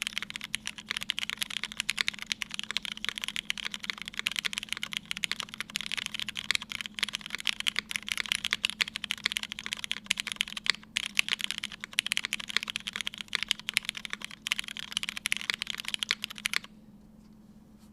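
Fast, continuous typing on a Keycult No.1/60 mechanical keyboard with lubed Hyperglide Black linear switches, an aluminium plate and GMK keycaps. The keystrokes stop about a second before the end, leaving a faint steady hum.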